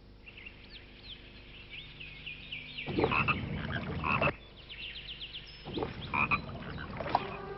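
Frogs croaking in two loud spells, about three and six seconds in, over a run of high chirping calls.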